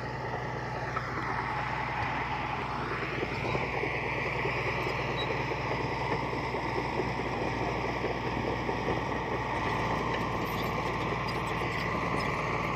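Heavy diesel earthmoving machinery running steadily under work, with a rise in pitch about three seconds in.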